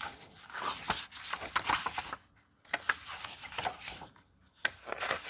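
Paper rustling and rubbing as a book's pages are handled and turned, in three scratchy stretches with short pauses between them.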